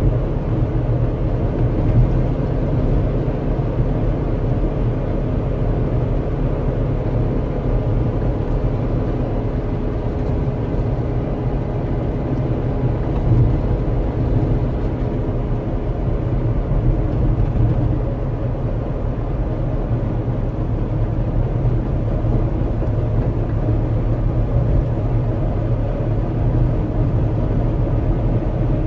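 Trabant 601 on the move, heard from inside the cabin: its two-cylinder two-stroke engine running steadily over the low rumble of the road.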